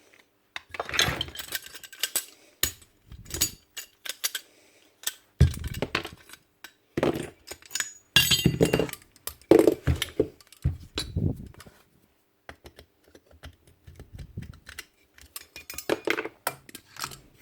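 Irregular metallic clinks, taps and knocks of small metal parts and hand tools being handled while a Paslode IM350+ nail gun is taken apart.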